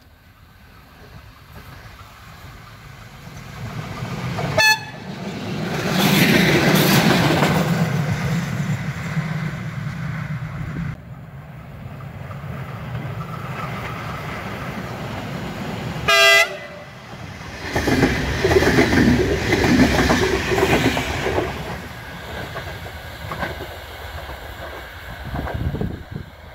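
Train approaching and passing close by on the track. A short horn blast sounds about 4.5 s in and another about 16 s in. Between and after the blasts there is loud running noise of the train going by, which fades near the end.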